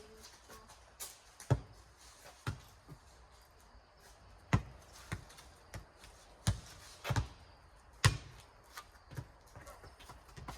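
Rubber playground ball in a four square rally, bouncing on pavement and slapped back by hands: a string of sharp smacks at an uneven pace, roughly one every half second to second.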